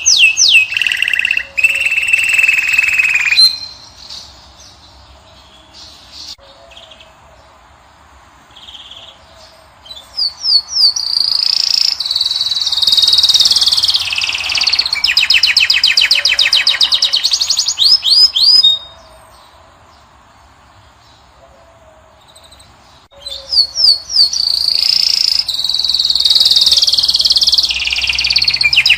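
European goldfinch (Moroccan goldfinch) singing in three bouts of fast, twittering trills made of quick rising notes, pausing for several seconds after about three seconds and again around the two-thirds mark.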